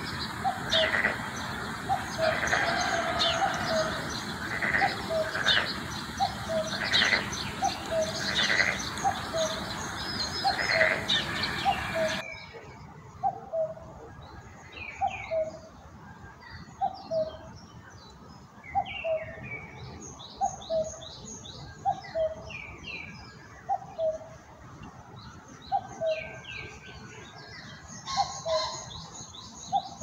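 Birds chirping and trilling, with a low call repeated about once a second throughout. A rushing noise underneath cuts off abruptly about twelve seconds in.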